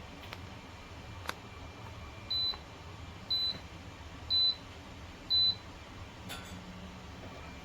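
Electronic control beeps from a walking pad treadmill: four short high-pitched beeps about a second apart, each a little louder than the last, with a sharp click about a second in.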